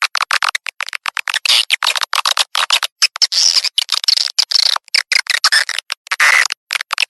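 Swiftlet calling-sound recording, a lure track for a swiftlet house: dense, rapid twittering chirps of edible-nest swiftlets, many per second with short gaps, with no low end.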